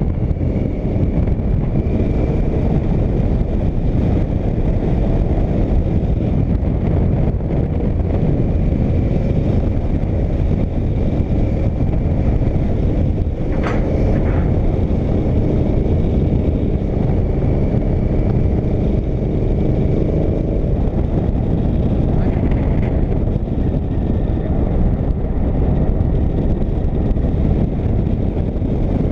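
Motorcycle running at a steady cruising speed: a constant engine drone mixed with heavy rushing wind. There is one brief sharp sound about halfway through.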